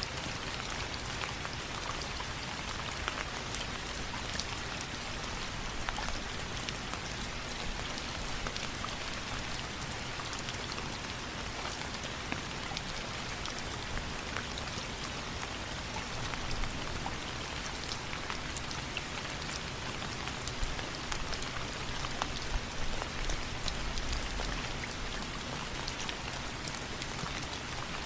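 Steady rain mixed with a crackling wood fire: a constant even hiss dotted throughout with many small, sharp pops and ticks.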